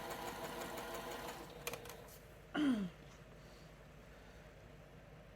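Domestic sewing machine stitching steadily, then stopping about a second and a half in. A few sharp clicks follow, then a short, loud sound sliding down in pitch, and after that only low room tone.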